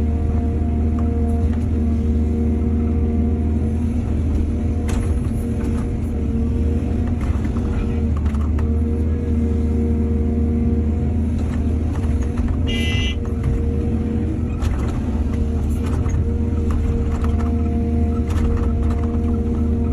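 Excavator's diesel engine running steadily with a low drone, with scattered clanks and knocks as it works. A brief high-pitched squeal comes about 13 seconds in.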